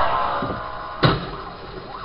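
Road-vehicle sounds: a pitched squeal dies away over the first half-second, then one sharp bang about a second in.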